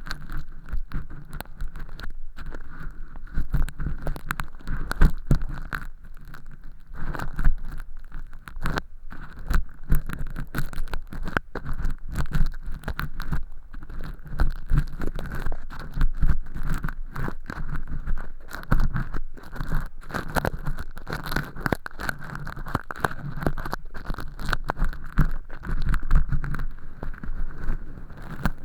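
Earpick scraping and peeling thin-film fake earwax inside a silicone ear canal, close to the microphone: a dense, continuous run of small scratches, crackles and clicks with low rumbling thumps.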